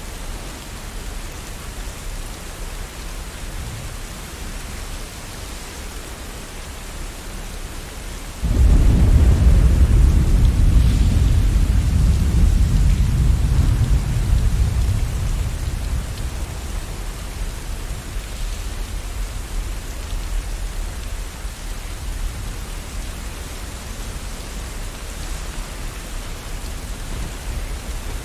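Steady rain with a thunderclap that breaks in suddenly about eight seconds in as a deep rumble, then fades away over several seconds while the rain keeps falling.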